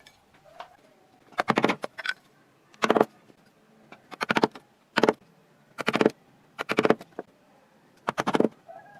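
A hand carving tool cutting into wood: a run of short crackling cuts, roughly one a second, each a quick cluster of clicks as the chips split away.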